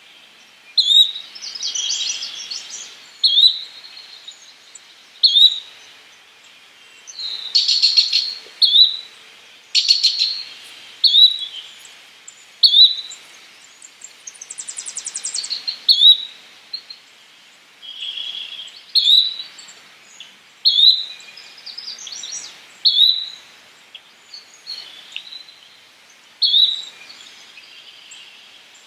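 Yellow-bellied flycatcher calling: a short note near the top of the range repeated every second or two, with other bird chirps, trills and chattering notes in between.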